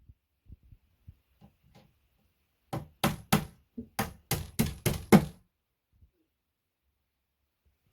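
A run of eight sharp knocks on flat-pack furniture parts during assembly, about three a second, after a few faint taps.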